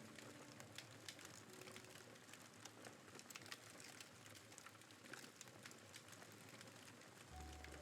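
Campfire wood crackling and popping, a faint stream of small irregular snaps. Soft background music comes back in near the end.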